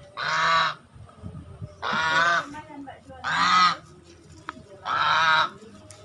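Swan calling four times, evenly spaced. Each call lasts about half a second, and some waver in pitch.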